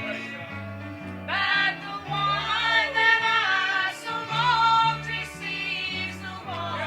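Gospel song: singing with instrumental accompaniment over a stepping bass line, the melody growing louder about a second and a half in.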